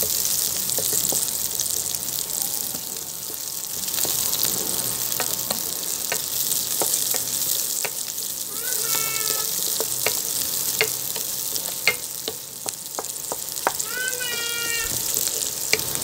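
Chopped garlic and onion sizzling in hot oil in a nonstick pan while a wooden spatula stirs them, knocking and scraping on the pan many times. Two short high-pitched tones are heard, about nine and fourteen seconds in.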